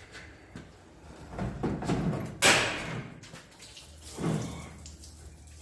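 Knocking and scraping with one loud bang about two and a half seconds in, and a shorter knock near the end. The sounds come from a car engine being worked out of the engine bay on a chain engine hoist.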